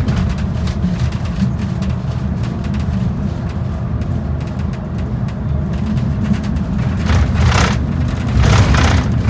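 Transit bus under way: a steady low engine and road rumble, with two short bursts of hiss near the end.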